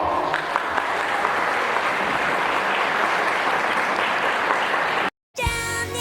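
Audience applauding steadily as the song ends. About five seconds in the sound cuts out for a moment, and music with singing starts.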